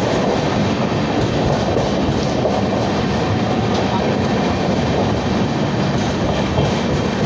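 Indian Railways LHB passenger coach running along the track: a steady, loud rumble of wheels on rail, with a few faint clicks.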